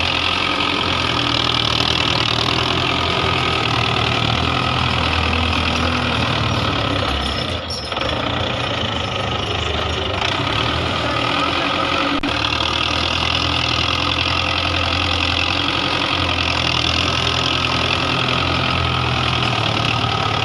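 Belarus 510 tractor's diesel engine running steadily, with a brief drop in loudness about eight seconds in.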